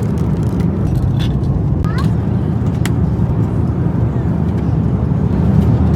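Steady low roar of jet airliner cabin noise in flight, with a few faint clicks and brief voices in the cabin.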